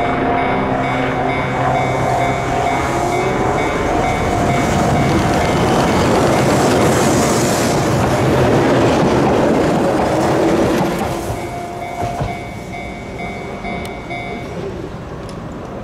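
A Keihan Ishiyama-Sakamoto Line two-car electric train passing close over a steel girder bridge, its wheels rumbling and clattering loudest about halfway through, then dying away after about eleven seconds. A level crossing's warning bell rings steadily under it and stops near the end.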